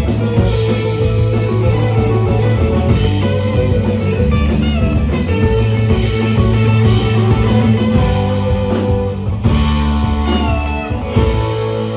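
Live rock band playing an instrumental passage: guitar lines with bent notes over bass and drums.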